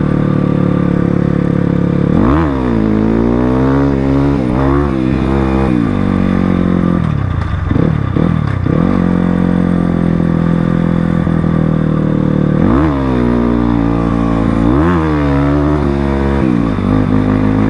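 Crossfire RM250 dirt bike engine running under way. The revs rise and fall several times as the throttle is worked and the gears are changed.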